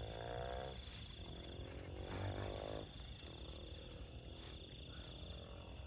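An insect, cricket-like, trilling on one steady high pitch. Two faint, drawn-out low sounds, each slowly falling in pitch, come in the first three seconds.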